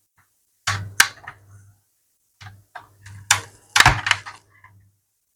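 Small plastic clicks and taps from handling a Ford Focus instrument cluster's parts while a gauge needle is being fitted, in several quick groups.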